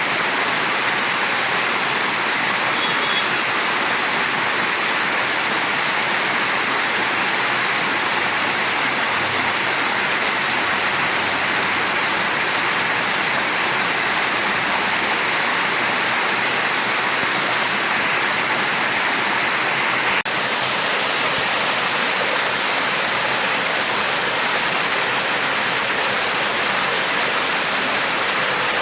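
Mountain stream rushing over rocks: a steady, unbroken water noise.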